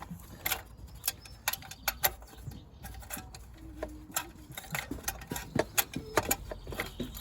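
Irregular metallic clicks and small knocks, roughly one or two a second, as the exhaust pressure sensor's metal pipe is wiggled against its mountings in a Mercedes B-Class engine bay; the pipe is stuck and won't come out.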